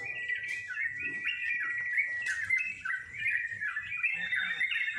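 Caged trucukan (yellow-vented bulbul) singing: a continuous run of quick, chirping, warbling phrases, over a steady thin high tone.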